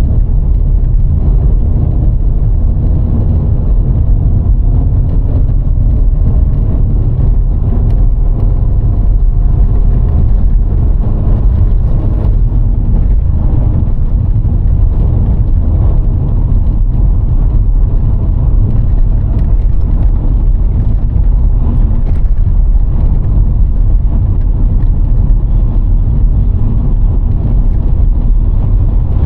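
Road noise of a VW Golf IV with a 1.6 four-cylinder petrol engine under way: a loud, steady low rumble of tyres and road. The engine note rises gently over the first dozen seconds as the car gathers speed, then holds.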